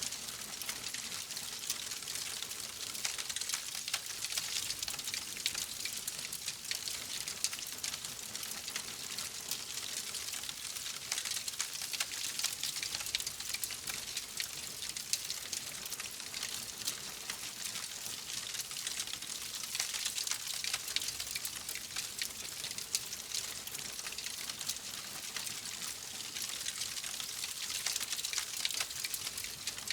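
Fire in a fireplace crackling steadily: a dense run of small pops and snaps over a soft hiss.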